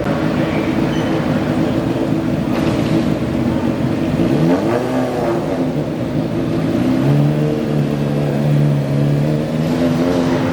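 Garden tractor engine running loud, with a rev that rises and falls about halfway through, then holding a steady pitch.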